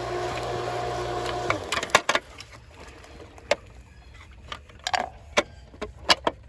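Pool pump motor running with a steady hum, switched off about a second and a half in, so that it stops abruptly. Scattered clicks and knocks follow.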